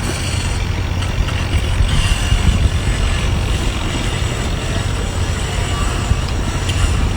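A steady low rumble with a constant hum underneath, like running machinery, holding even throughout with no distinct knocks or bites.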